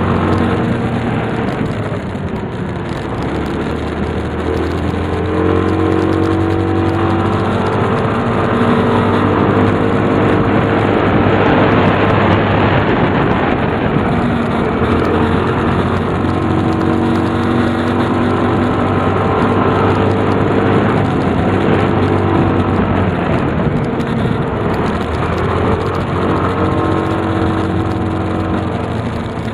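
Tsurugi 150's engine running under way, its pitch rising and falling several times over steady road and wind noise.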